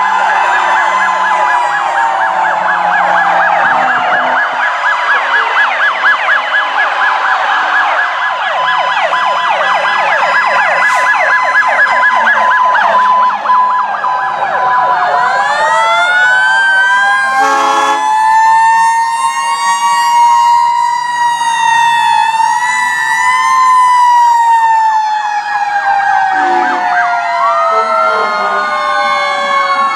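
Several fire engine sirens sounding at once, overlapping: rapid fast-cycling yelps for roughly the first half, then slower rising and falling wails. A short horn blast cuts through a little past the middle.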